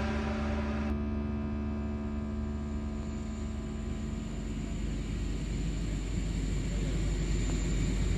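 Steady airliner cabin noise, a low rumble and hiss with a faint high whine, after background music ends about a second in.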